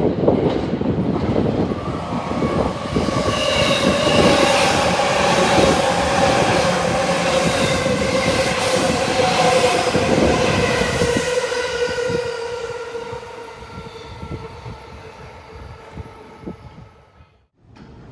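An electric limited-express train running on the rails: wheel and rail rumble with a motor whine of several tones that slowly falls in pitch, then the sound fades away and cuts off suddenly near the end.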